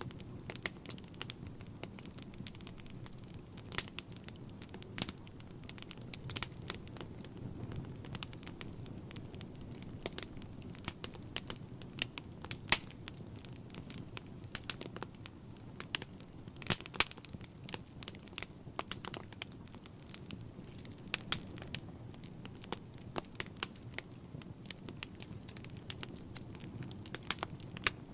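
Wood fire crackling in a fireplace: irregular sharp pops and snaps, a few louder ones, over a low steady rumble of burning.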